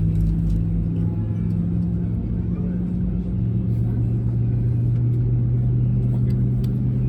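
Cabin drone of an Airbus A320neo on the ground after pushback: a steady low hum of the engines at idle, with held low tones that shift pitch about three seconds in.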